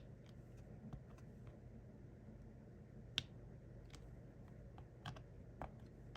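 A handful of small, sharp plastic clicks and taps, irregularly spaced, the sharpest about three seconds in: resin diamond-painting drills being picked up with a drill pen and pressed onto the sticky canvas.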